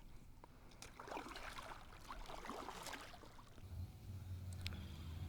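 Water splashing and dripping around a kayak as it gets under way. About three and a half seconds in, a steady low motor hum starts up and keeps running.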